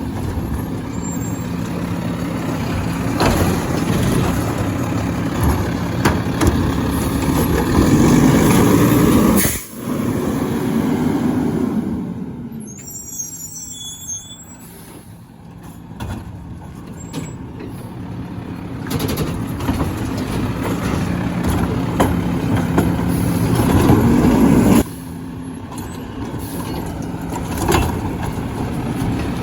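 Garbage truck running at the curb, its engine rising twice to a louder working pitch for about two seconds and cutting off sharply each time, with hissing and faint squeaks between.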